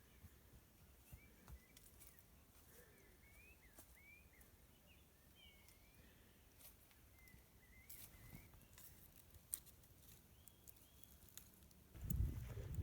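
Faint birdsong: a bird's short rising and falling chirps, with a few small clicks. Near the end a louder low rumble comes in.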